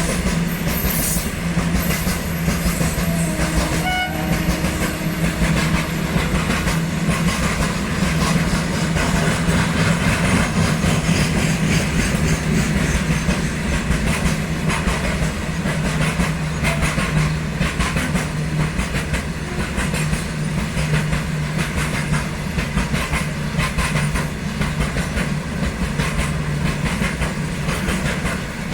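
Indian Railways goods train of hopper wagons rolling past, with a steady low rumble and continuous clattering of wheels over the rail joints.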